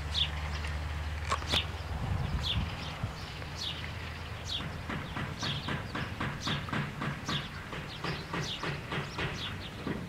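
A small bird chirping over and over in short, high, falling chirps, sparse at first, then about three or four a second from the middle on. Wind rumbles on the microphone for the first couple of seconds.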